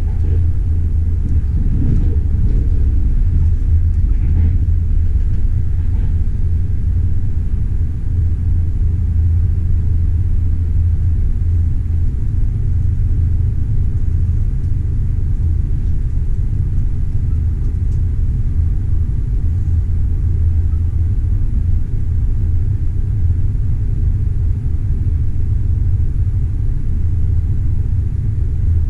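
Moving passenger train: a steady low rumble, with a few faint clicks in the first several seconds.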